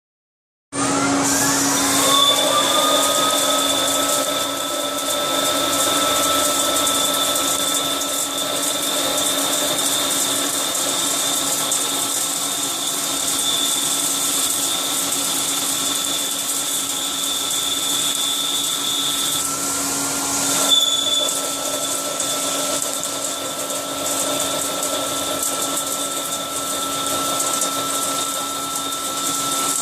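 CNC milling machine running: a whine starts about a second in and rises in pitch as the spindle comes up to speed, then holds steady. About two-thirds through, the whine briefly falters before settling again.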